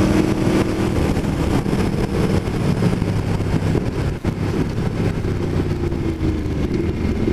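Aprilia Tuono V4 1100 Factory's V4 engine, breathing through an Austin Racing exhaust can, running at low revs under way at around 30 mph, with wind noise over it. The loudness dips briefly about four seconds in.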